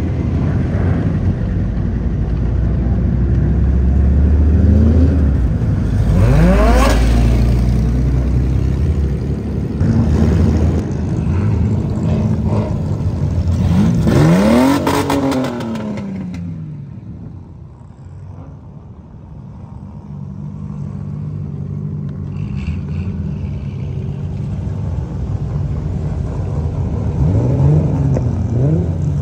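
Drift cars' engines revving hard, one car after another, as they slide through a cone course. The engine pitch climbs and falls with each burst of throttle, loudest about a quarter and half of the way through, drops away for a few seconds after that, then builds again as the next car revs near the end.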